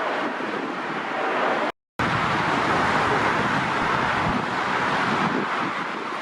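Jet airliner engine noise, a steady rushing, with wind on the microphone. The sound cuts out for a moment about two seconds in and comes back louder.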